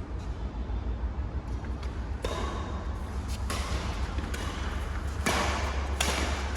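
Badminton rackets striking a shuttlecock in a rally, several sharp hits about a second apart that ring in a large hall, over a steady low hum.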